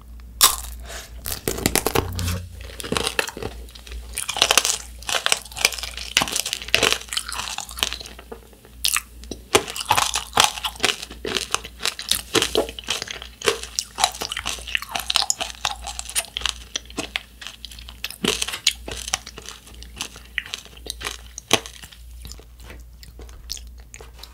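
A bite cracking through the hard sugar-candy glaze of a macaron tanghulu, with one sharp crack, then a long run of crisp crunching chews as the candy shell breaks up in the mouth. The crunching thins out near the end.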